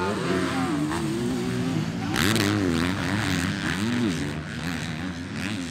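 Motocross dirt bike engines revving, their pitch climbing and dropping again and again as the bikes accelerate and shift, with a brief loud rush of noise about two seconds in.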